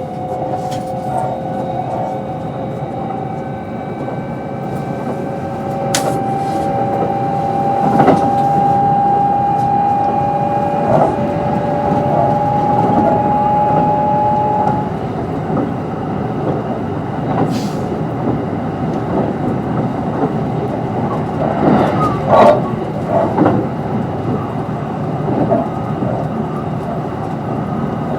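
Kintetsu 22600 series electric train running, heard on board. The Mitsubishi IGBT-VVVF traction motors give a steady whine whose pitch creeps slowly upward and which stops about halfway through as power is shut off. Underneath are a constant wheel rumble and a few sharp clacks over rail joints.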